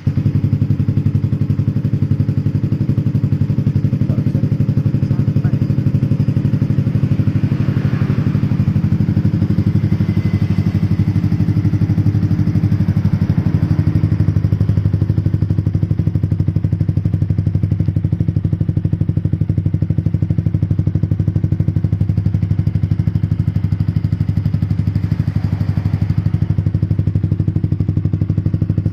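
Yamaha MX King's single-cylinder four-stroke engine idling steadily through an aftermarket Scorpion exhaust.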